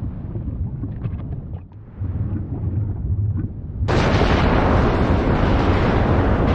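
Volcanic eruption: a deep rumble with wind on the microphone, then, about four seconds in, a sudden loud rushing hiss that keeps going.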